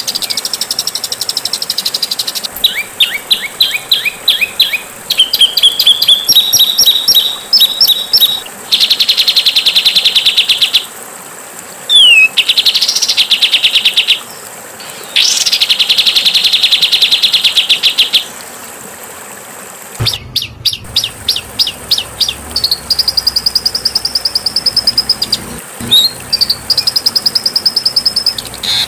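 A songbird singing loud, fast runs of repeated chattering notes and buzzy trills, with short pauses between phrases. About two-thirds of the way in, the background cuts out for a moment and changes, like an edit in the recording.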